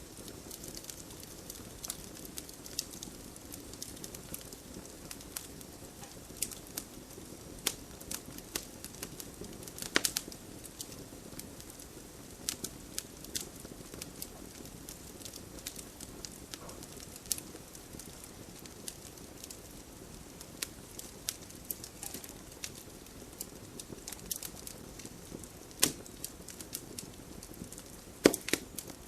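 Wood fire crackling: a low steady rumble of flames with frequent sharp pops, a few of them louder, notably about a third of the way in and twice near the end.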